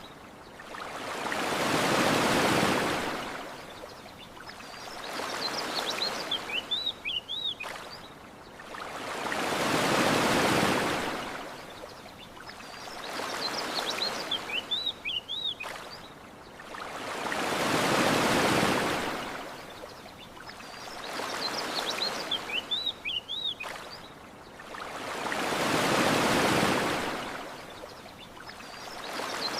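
Ocean waves washing on a sandy shore: a big surge of surf about every eight seconds with smaller ones between. A bird's short chirping calls come in each lull, repeating at the same even spacing.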